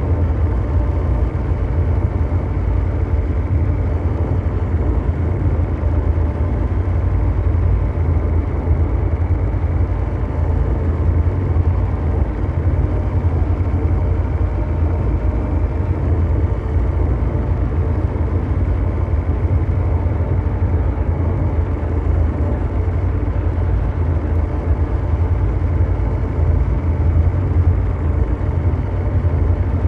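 Continuous mechanical drone noise: a dense, steady rumble like brown noise, heaviest in the deep bass, with a few faint steady tones above it.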